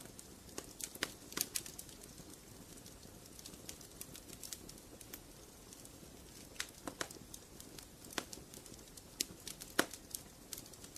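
Wood fire in a fireplace crackling: irregular sharp pops and snaps over a soft steady hiss, with a few louder pops.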